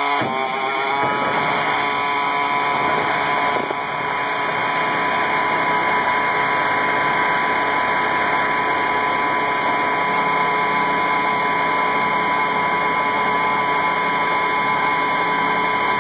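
Cold start of an AM General M35A2C 2½-ton truck's multifuel diesel engine in freezing weather. It catches and picks up in pitch over the first second, then runs steadily at idle.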